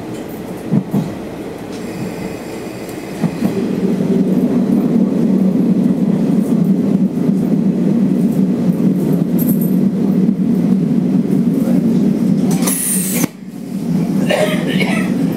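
Cabin sound of a Sanriku Railway diesel railcar running along the line, with steady rumbling running noise that grows markedly louder about three seconds in and stays loud. Near the end there is a brief high hiss and a short drop in the noise.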